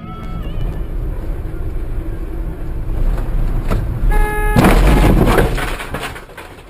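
Car road noise and engine rumble building, then a car horn sounds briefly about four seconds in, followed at once by a loud collision noise lasting about a second that dies away.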